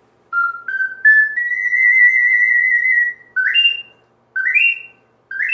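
Soprano C ocarina played: three short notes stepping upward, a long held high note, then short notes that slide quickly up to a higher pitch, about one a second.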